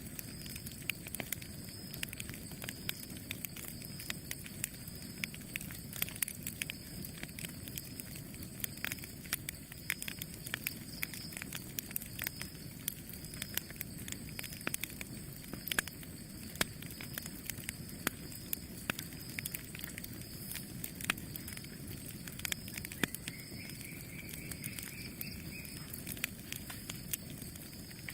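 Wood campfire burning: irregular sharp crackles and pops over a low steady rush of the flames.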